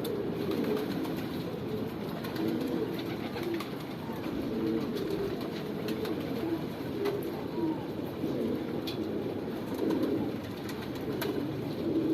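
Domestic pigeons cooing over and over, the low coos overlapping one another.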